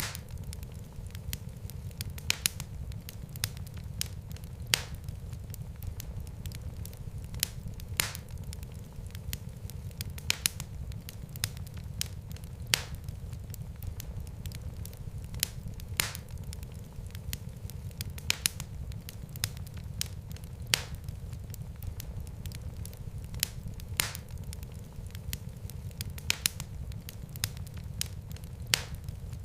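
Wood fire in a fireplace crackling: a steady low rumble of flames with sharp pops and snaps every couple of seconds.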